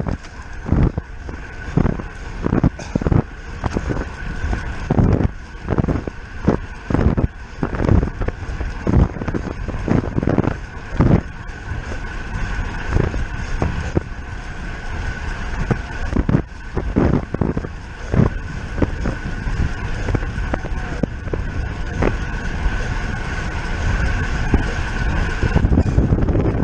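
Road bicycle ridden at race speed, with wind on the microphone, a steady high whine, and irregular knocks about twice a second that thin out in the latter part. The rear derailleur, its hanger bent in a crash, is rubbing on the wheel spokes.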